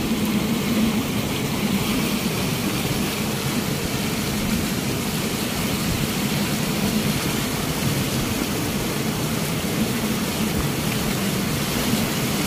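Steady running noise of a moving passenger train heard at an open window, with a low, steady hum.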